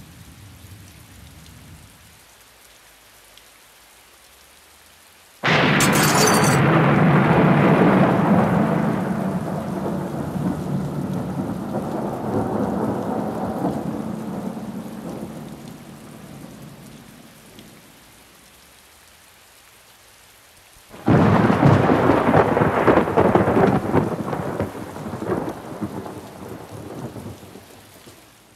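Thunderstorm sound effect: rain hissing, with two sudden claps of thunder, one about five seconds in and another about twenty seconds in, each rumbling away over several seconds.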